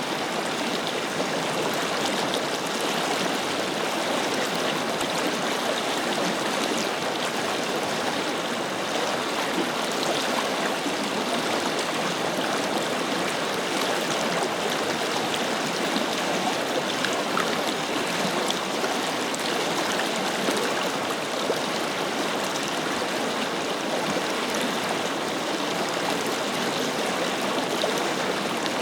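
Forest river flowing, its water rushing and splashing over stones in a steady, even wash with small droplet splashes scattered through it.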